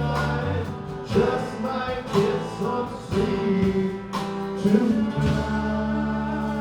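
Live band playing a song: guitar over held bass notes and a drum beat, with singing.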